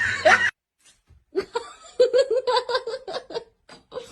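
A person laughing in bouts of quick, repeated 'ha-ha' pulses that start about a second and a half in, after another sound cuts off abruptly half a second in at a clip change.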